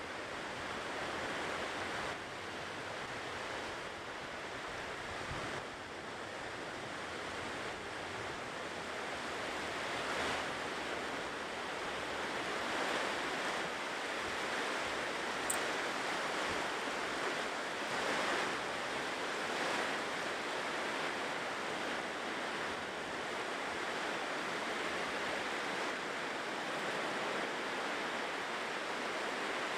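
Ocean surf washing on a shore: a steady rush of breaking waves that swells and eases every few seconds.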